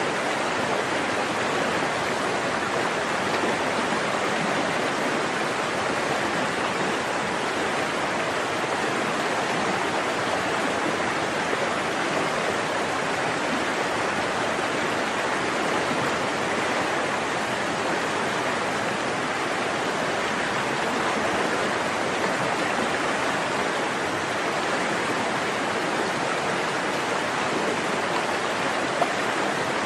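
Forest stream water flowing and splashing steadily.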